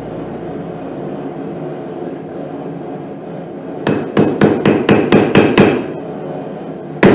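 Hand hammer striking a center punch on steel at the anvil: a quick run of about eight sharp, ringing metal blows in under two seconds starting about halfway through, then one more blow near the end.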